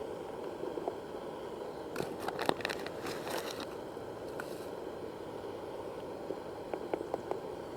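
Small backpacking canister stove running steadily under a pot of water coming to the boil. Over it, a burst of crinkling and crackling handling noise about two seconds in, and a few sharp clicks near the end.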